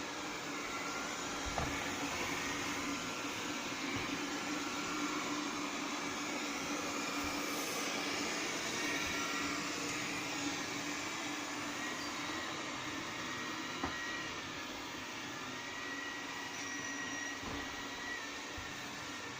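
Xiaomi Mi Robot Vacuum-Mop P running with a steady whir and hum as it drives back to its charging dock, with a few faint knocks.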